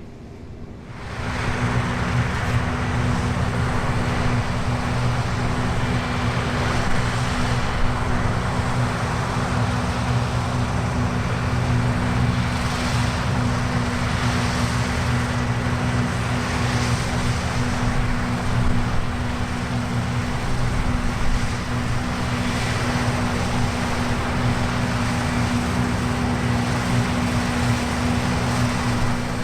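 New Holland CX8.70 combine harvester running steadily at work: a constant engine hum under an even machinery hiss, coming in suddenly about a second in.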